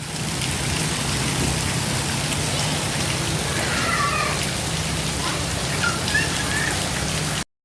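Steady rain falling, a continuous even hiss of drops on the ground and surfaces around.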